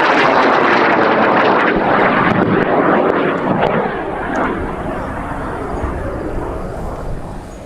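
High-power rocket's N4010 solid motor, blue propellant, burning at full thrust: a loud rushing noise with crackle. After about four seconds it fades as the rocket climbs away.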